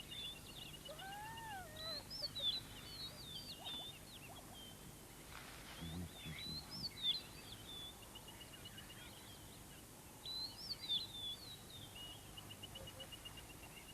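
Faint natural ambience of birds chirping in several short bouts, over a rapid, even trill. About a second in there is a short call that rises and then falls.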